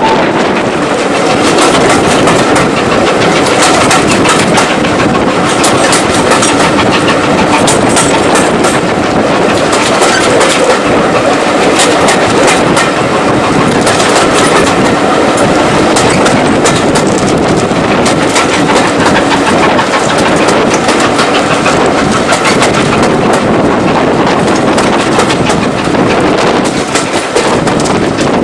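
Train running along the track, its wheels clicking continuously over the rail joints.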